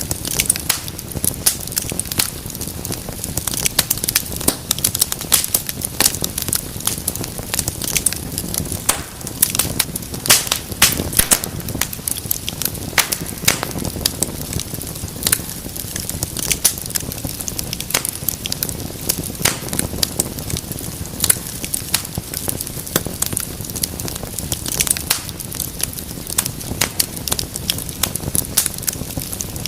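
Wood fire burning in a fireplace, with a steady low rumble of flames and many sharp, irregular crackles and pops.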